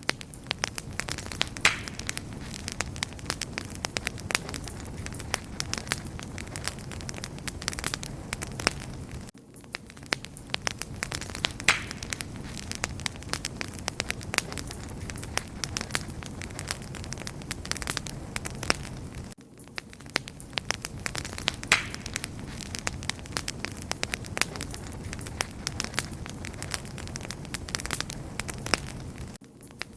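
Wood fire burning steadily, with a low rumble of flame and constant crackling and sharp popping of the logs. The level dips briefly about every ten seconds, where the same stretch of recording repeats.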